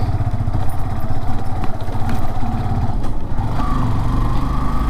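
Motorcycle engine running steadily while being ridden along a road.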